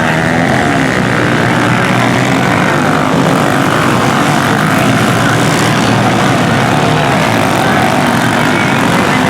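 Several small pit bike engines racing at once, their overlapping pitches wavering up and down as the riders work the throttles.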